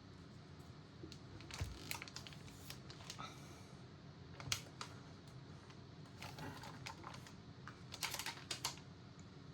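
Light, irregular clicks and taps of small metal and plastic CPU-cooler mounting parts being handled and set on a motherboard, in a few short clusters over a low steady hum.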